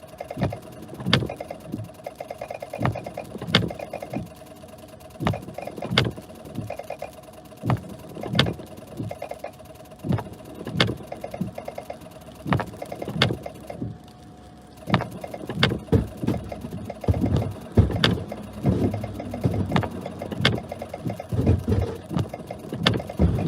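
Cabin noise of a vehicle being driven, with frequent irregular sharp knocks and clicks about once or twice a second over a steady hum.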